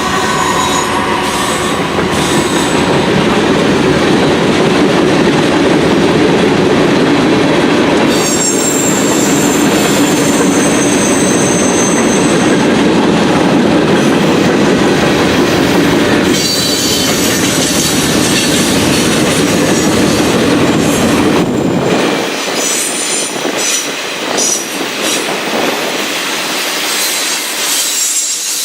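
Norfolk Southern freight train rolling past: its cars rumble and clatter over the rails, with high steel-wheel squeal about 8 to 13 seconds in. The last of the horn fades in the first second, and the low rumble drops away about 22 seconds in, leaving lighter rattling.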